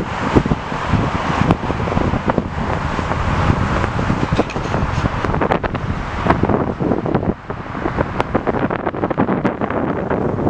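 Gusty wind buffeting the camera's microphone: a rough, uneven rush with frequent crackles.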